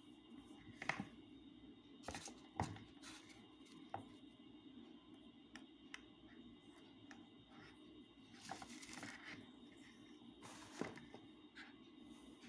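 Faint handling noises: scattered sharp clicks and a couple of brief rustles over a low steady room hum.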